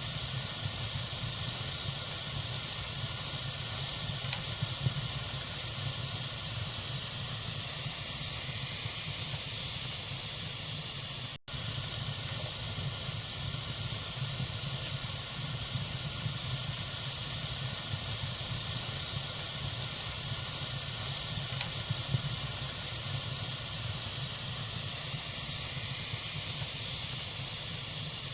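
Wood fire burning in a fireplace: a steady hiss with a few light crackles, broken by a brief gap of silence about eleven seconds in.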